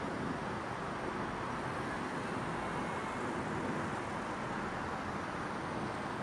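Steady ambient hum of a residential neighbourhood: an even wash of distant traffic noise with no distinct events.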